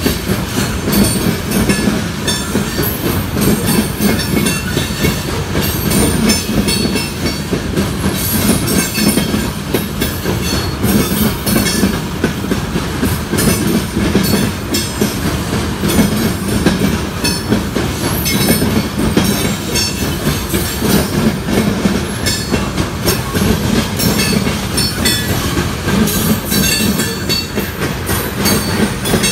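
Freight train of coal hopper cars rolling past at close range: a steady rumble of steel wheels on rail, with rapid clicking over rail joints and intermittent high-pitched wheel squeal.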